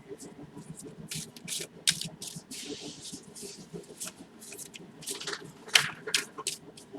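Tarot cards being shuffled and handled: irregular quick flicks and clicks, with a longer swish about three seconds in and a busier run of clicks near the end.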